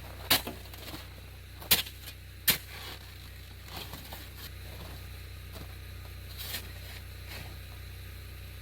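Snow shovel striking and scraping into snow: three sharp hits in the first two and a half seconds, then a few fainter scrapes.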